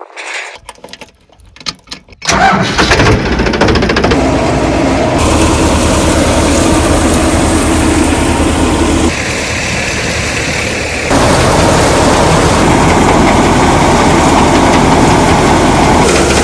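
Tractor diesel engine starts suddenly about two seconds in and then runs loud and steady, with a short dip in level around the middle.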